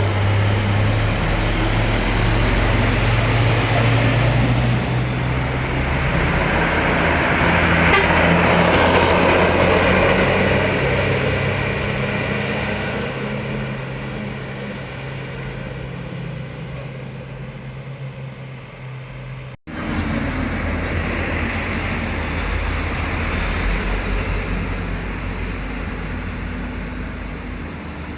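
Large diesel buses running past on a road: a steady low engine drone with tyre and road noise that swells as a bus goes by. About two-thirds of the way through it cuts sharply to another bus.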